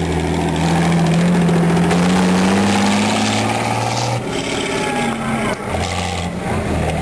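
Farm tractor's diesel engine running hard, its revs climbing slowly for a few seconds and then dropping about four seconds in, after which it runs on steadily.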